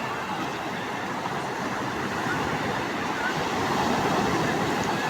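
Rough sea surf: a steady wash of breaking waves that swells a little toward the middle.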